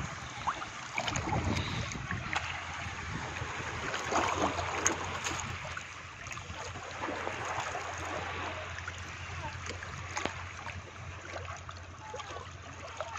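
Small waves lapping and splashing against a boat's hull, with many small crackles and splashes over a faint steady low hum.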